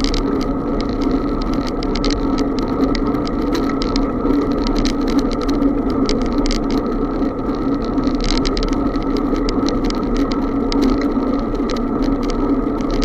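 Steady rush of riding noise from a moving bicycle, with tyre and wind noise, and frequent small clicks and rattles.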